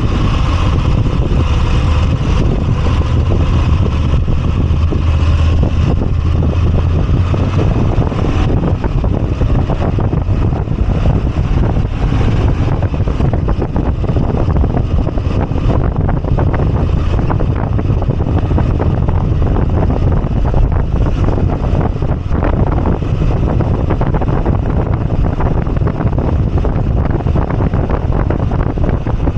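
Moto Guzzi V85TT's air-cooled transverse V-twin engine running on the move, heard from the bike with wind rushing over the microphone. The engine's steady low hum is clearest for the first eight seconds or so, after which the wind rush takes over more of the sound.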